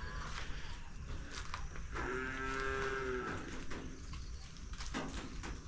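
A cow mooing: one long, steady call about two seconds in. A few light clicks and rustles come before and after it.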